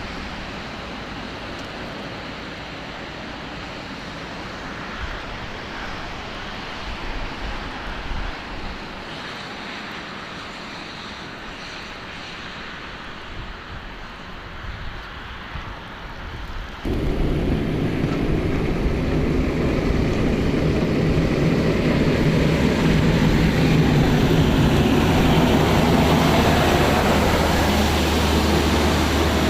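Snowplow engine running: a quieter engine and rumble at first, then after a sudden cut about seventeen seconds in, a louder, close engine with a steady low hum.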